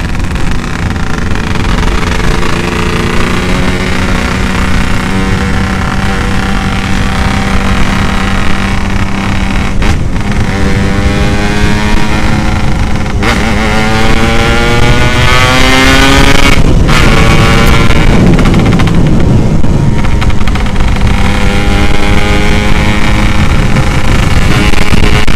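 Yamaha RX-King's single-cylinder two-stroke engine through an aftermarket 'setengah dewa' exhaust, pulling hard under acceleration. Its pitch climbs, then briefly drops at each gear change, about three times, with a steady rush of wind and road noise underneath.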